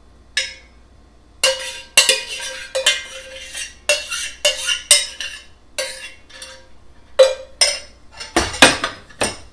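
A metal spoon clinking and scraping against a saucepan, about fifteen sharp knocks with a short ring, getting out the last of the cooked strawberry glaze. The loudest knocks come near the end.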